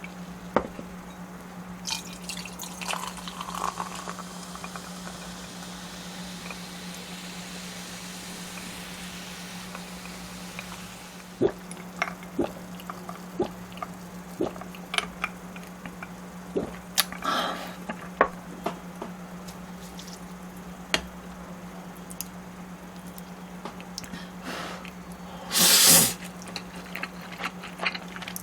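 Cola being poured and fizzing, with a soft hiss of bubbles for several seconds, then scattered small clicks and drips as it is drunk close to the microphone. A loud short rush of noise comes near the end, and a steady low electrical hum runs underneath.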